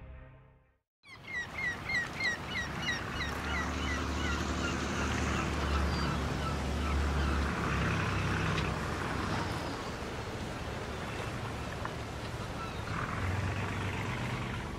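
A bird calling in a quick run of short falling notes, about three a second, over a steady low motor rumble and outdoor noise.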